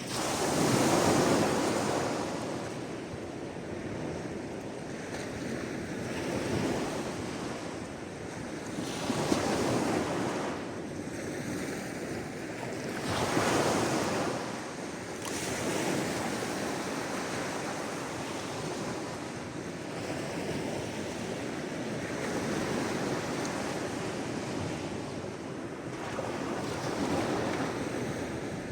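Sea waves breaking and washing on the shore, a steady surf wash with several louder breaks: one right at the start, then around 9 and 13 seconds in, and smaller ones near 6 and 27 seconds.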